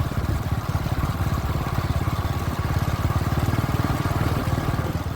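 Sidecar motorcycle engine running steadily as it rides along, with a rapid even firing beat.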